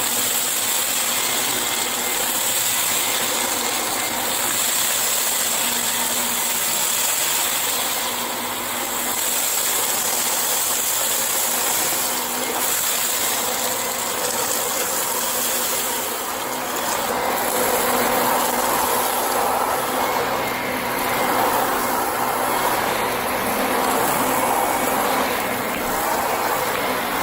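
Vacuum cleaner motor running steadily with a high-pitched whine, switched on just before; the sound grows fuller about two-thirds of the way through, as if the cleaner is working a surface.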